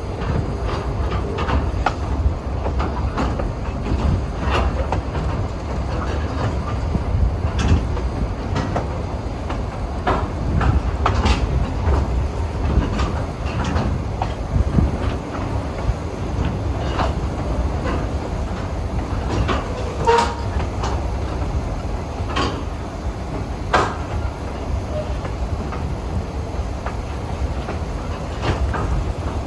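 Train rolling on the rails: a steady low rumble with irregular clicks and knocks from the wheels on the track.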